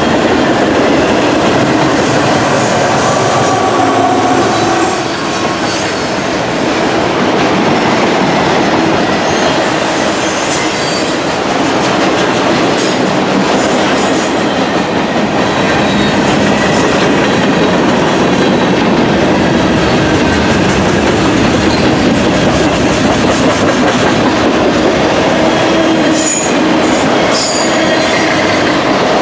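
Freight train cars rolling past, a steady loud noise of steel wheels on rail with thin whining tones over it.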